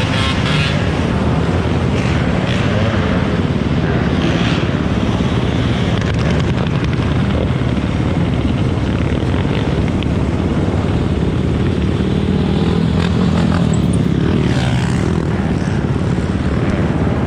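Loud, steady engine drone with a heavy rumble and no clear revving.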